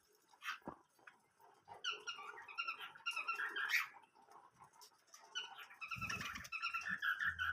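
Small cage birds, finches and budgies, chirping in quick short notes, in two bouts with a brief lull between.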